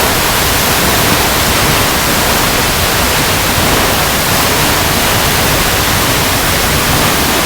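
Waterfall cascading over rocks: a steady, even rush of falling water, unchanging throughout.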